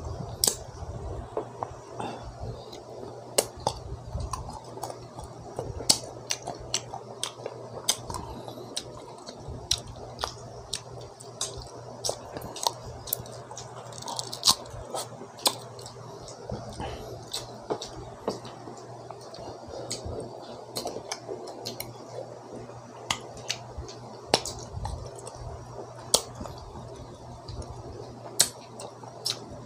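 Green mango being bitten and chewed, with irregular wet mouth clicks and smacks throughout. The mango is already ripe and soft, so it chews soft rather than crunching.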